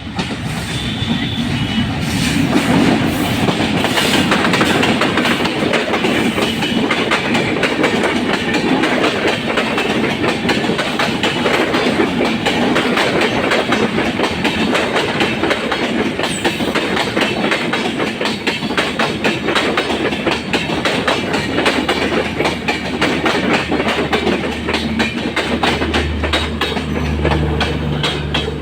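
Kapotaksha Express passenger train running through the station at speed without stopping, its coach wheels clattering steadily over the rail joints. A low steady hum joins near the end.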